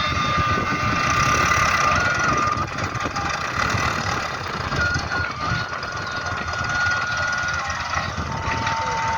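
Tractor loader's engine running steadily with a dense, fast-pulsing rumble. A thin steady tone rides over it and shifts in pitch a few times.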